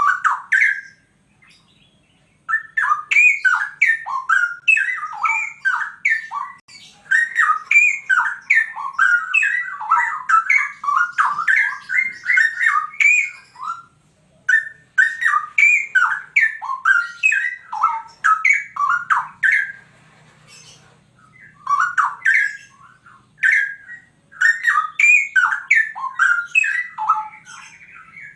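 Straw-headed bulbul (cucak rowo) singing loud, rich runs of quick, gliding whistled notes in long phrases, broken by a few short pauses.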